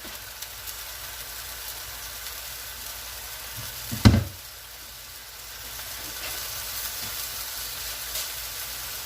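Chuck roast searing in hot oil in a pan: a steady sizzle. One sharp knock about four seconds in.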